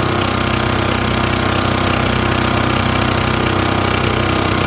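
Champion portable generator's small single-cylinder engine running steadily at a constant speed, with a new spark plug fitted.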